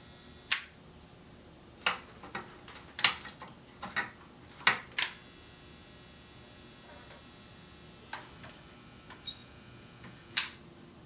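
Scattered sharp clicks and taps of small hand tools and parts being handled at a workbench during electrolytic capacitor replacement in an old wire recorder chassis. About a dozen, bunched in the first five seconds, then a few more with one sharp click near the end.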